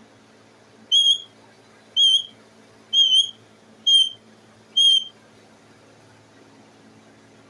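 Pet parrot giving five short, high whistled calls, about one a second.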